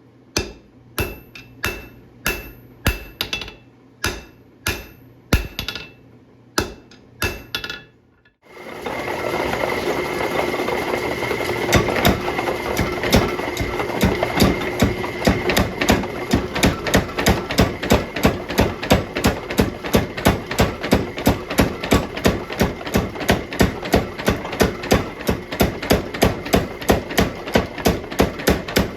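Hammer blows on steel bar stock at the anvil during forging: evenly spaced ringing strikes about two a second. After a brief break about eight seconds in, a faster, very even run of blows follows over a steady rushing noise.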